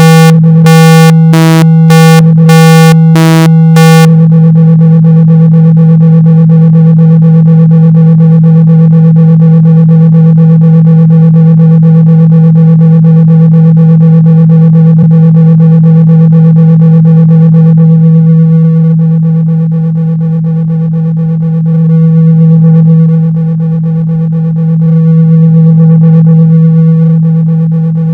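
Loud, steady low test tone of about 162 Hz for cleaning a speaker, played to vibrate water and dust out of the speaker grille. For the first four seconds it comes in short, buzzy pulses. It then holds steady, and from about 18 seconds in it slowly swells and fades in level.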